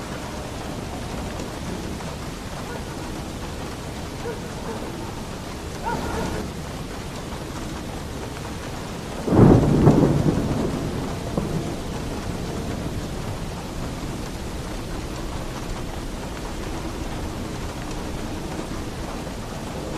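Heavy rain falling steadily on a roof. A loud clap of thunder breaks in about halfway through and rumbles away over a second or two, after a smaller swell a few seconds earlier.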